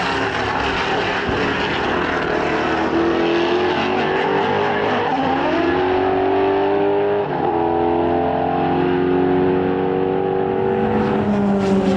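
Racing car engine pulling hard through the gears: the pitch climbs, drops sharply at upshifts about five and seven seconds in, then climbs again.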